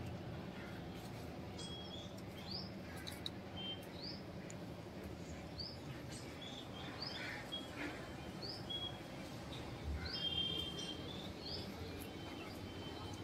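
Birds calling: a short rising chirp repeated about every second and a half, mixed with brief steady whistled notes, over a constant low background hum.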